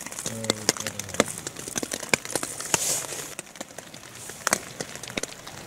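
Raindrops pattering on a nylon tent, heard from inside as irregular sharp taps over a faint hiss. A short low hum sounds near the start.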